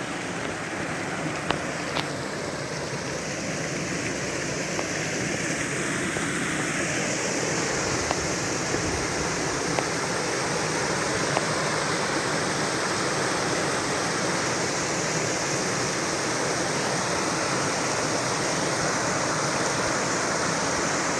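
Waterfall: water falling and rushing steadily, a little louder and brighter from about six seconds in, with a few faint clicks.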